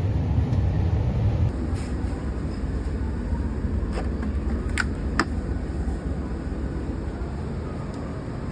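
Steady low rumble of a running vehicle, with two or three sharp clicks about five seconds in.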